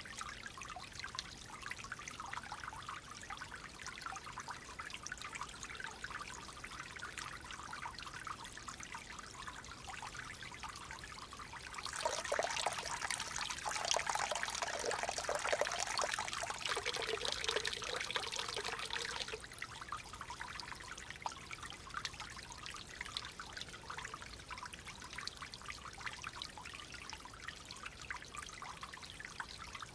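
Clear water trickling and flowing steadily in a small stream. About twelve seconds in, a louder, fuller rush of water starts abruptly and stops just as abruptly about seven seconds later.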